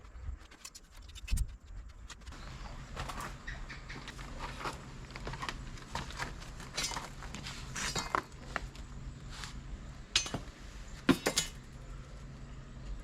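Scattered light metallic clinks and jangles, as steel rebar and tie wire are handled and tied for a concrete foundation. A low steady hum comes in about two seconds in.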